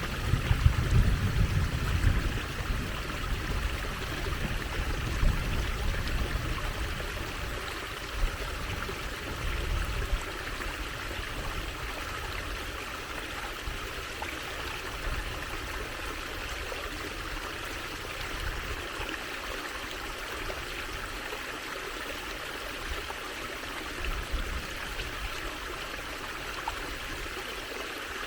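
A shallow stream trickling steadily over stones, with a low rumble under the water during the first several seconds.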